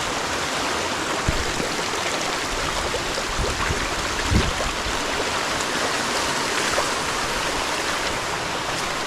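Creek water rushing steadily, with a couple of low thumps, the loudest about four seconds in.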